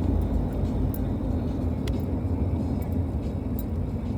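Steady low rumble of a car's engine and tyres heard from inside the cabin, with a few faint ticks about once a second.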